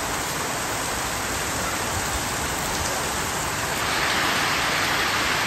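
Heavy rain falling steadily, a dense even hiss that grows a little louder about four seconds in.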